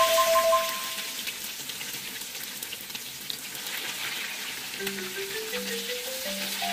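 Oil sizzling steadily in a frying pan as bell pepper halves stuffed with ground pork fry. Light background music: mallet-like notes fade out in the first second, and a new rising melody begins about five seconds in.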